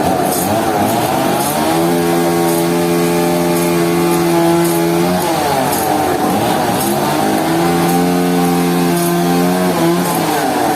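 Sawmill machinery running: a motor holding a steady pitch for a few seconds, dipping and bending away around the middle, then settling back to a steady pitch. Faint high ticks come about once a second.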